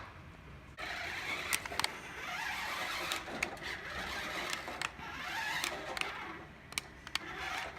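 Radio-controlled toy bulldozer's small electric motor and plastic gearbox whirring as it drives, with several sharp clicks or knocks along the way.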